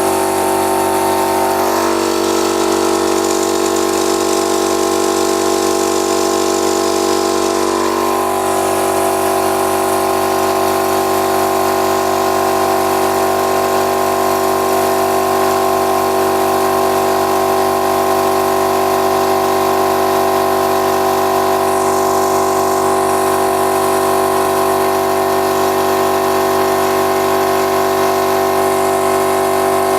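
Stabilo 200/8/24 oil-lubricated piston air compressor running steadily as it pumps up its 24-litre tank toward cut-off. Its tone shifts slightly about eight seconds in.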